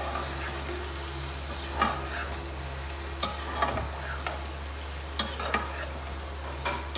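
Mutton liver and onions sizzling in a pot while a metal spoon stirs the ground spices through them, with about six short knocks and scrapes of the spoon against the pot.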